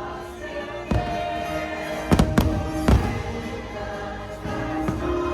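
Fireworks show soundtrack music playing over the crowd, with several firework bangs, the loudest cluster about two to three seconds in.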